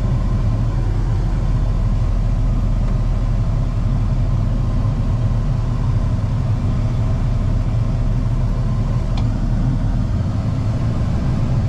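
Steady low drone of a Ford F-150 pickup heard from inside the cab: engine and road noise while creeping along in traffic.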